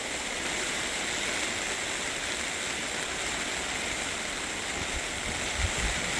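Heavy rain falling steadily, a dense even hiss. A few low thumps sound near the end.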